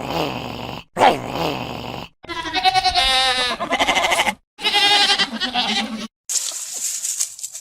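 An animal bleating: two long, wavering calls, each under two seconds, after a shorter cry that slides down in pitch. A high, hissy, chirping sound follows near the end.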